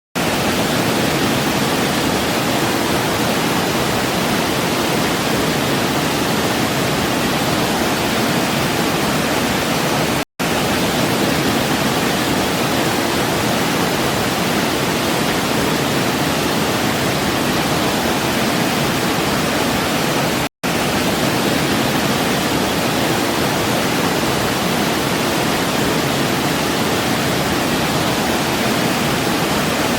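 Waterfall rushing as a steady, dense wash of water noise. It cuts out for an instant about ten seconds in and again about twenty seconds in.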